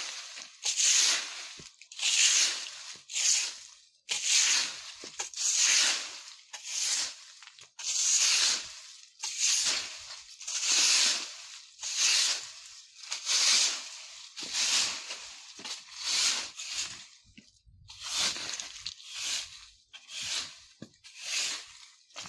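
Broom sweeping dry fallen leaves across the ground, one rustling swish about every second, with a brief pause about three-quarters of the way through.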